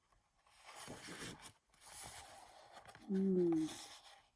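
Sheets of scrapbook paper rustling and sliding as they are handled, then a short hummed "mmm" from a woman, slightly falling in pitch, about three seconds in, the loudest sound.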